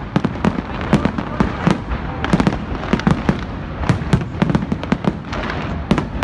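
Fireworks going off in a dense, irregular barrage of sharp bangs and pops, several a second, over a constant background din.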